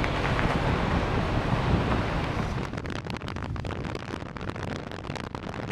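Wind rumbling on the microphone. About halfway through it eases into a patchier, crackly noise.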